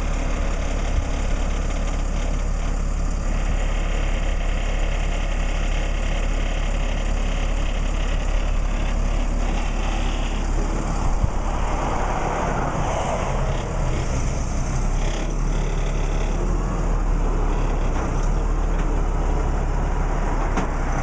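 Tow truck's engine running steadily with a low drone while the boat trailer is loaded onto it.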